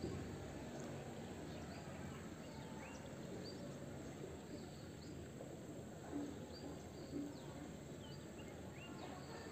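Faint outdoor ambience with small birds chirping: short, high chirps every second or so over a low, steady background hum.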